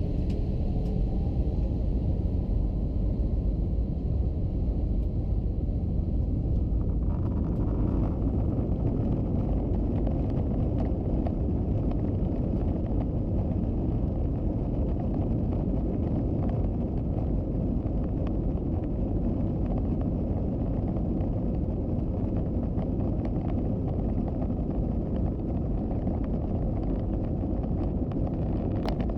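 Airbus A321-200 airliner's engines and airflow making a steady, loud rumbling noise, which grows fuller and brighter about seven seconds in.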